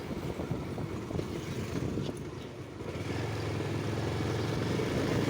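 Motorcycle engine running while riding, with wind rumbling on the microphone; a steady engine hum comes up about three seconds in.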